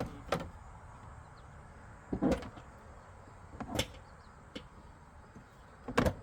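Hard plastic knocks and clunks of a truck's center console being handled and set into place in the cab, five or so separate thumps a second or two apart, with a double knock near the end.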